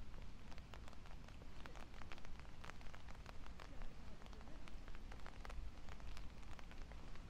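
Light rain: raindrops ticking irregularly close by, many small sharp taps, over a low steady rumble.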